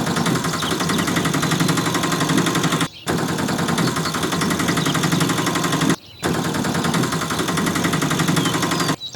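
A fast mechanical rattle of rapid clicks, like a small motor running. It breaks off briefly about every three seconds, with faint chirps above it.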